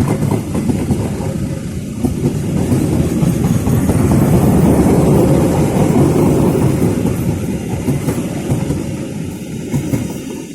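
Passenger train hauled by a CC201 diesel-electric locomotive rumbling past, building to a peak about halfway through, then fading away near the end.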